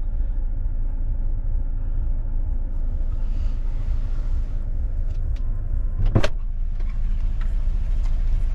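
Steady low rumble of a car heard from inside, with a brief sharp knock about six seconds in.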